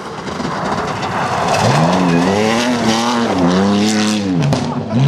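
Rally car coming through at full throttle: a rushing noise builds, then the engine note rises and holds, dips sharply on a lift or gearchange near the end and climbs again.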